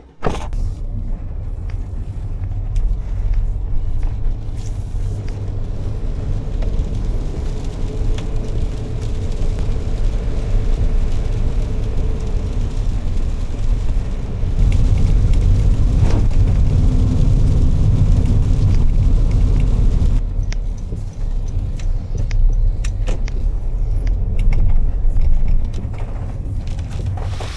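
Motor vehicle on the move: a steady low engine and road rumble that grows louder about halfway through and eases back a few seconds later.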